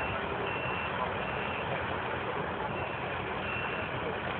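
A truck's reversing alarm beeping about once a second, with a short break in the middle, over a steady engine rumble.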